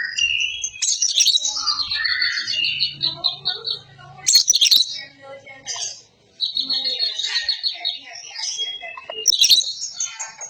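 Green leafbird (cucak ijo) singing a dense, fast run of chirps and trills, with a brief pause just past halfway and a few louder bursts.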